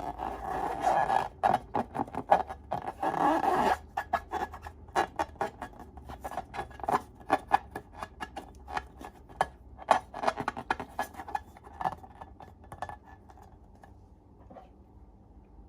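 Slime being worked by hand: a run of small sticky clicks and crackles, dense for the first four seconds, then scattered and thinning out until they stop near the end.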